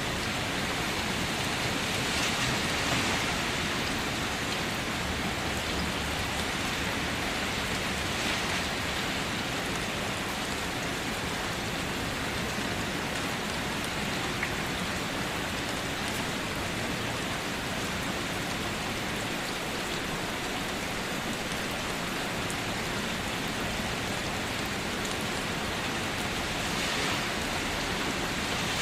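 Steady rain falling and pattering on surfaces, with occasional individual drops and slight swells in intensity, no thunder.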